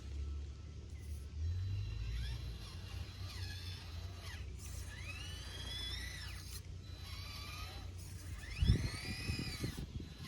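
Small electric motor and gearbox of a 1:18-scale FMS FCX18 Chevrolet K10 RC crawler whining, rising and falling in pitch several times as the throttle is worked. A knock comes near the end, when the truck strikes a rock.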